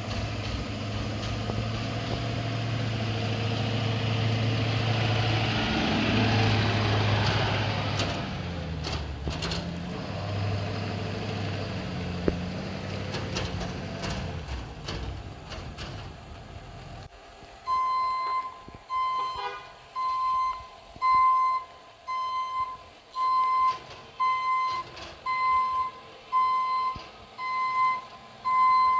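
Pickup truck's engine running and changing speed for the first two-thirds or so. It stops abruptly, and a reversing alarm then beeps steadily, about once a second.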